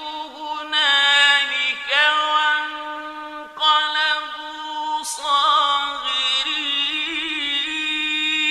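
Male voice reciting the Quran in a slow, melodic chant, holding long ornamented notes with a wavering quiver. It comes in several drawn-out phrases, each starting again after a brief break.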